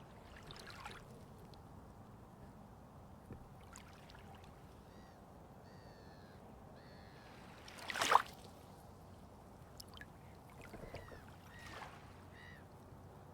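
Calm water lapping and splashing, with one louder splash about eight seconds in. Birds call briefly several times in between.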